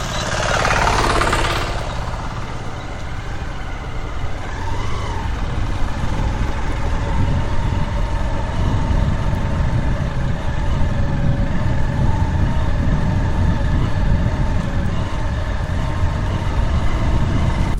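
Steady running of a vehicle's engine with low road rumble, heard from on board; a louder rush of noise sweeps through in the first couple of seconds.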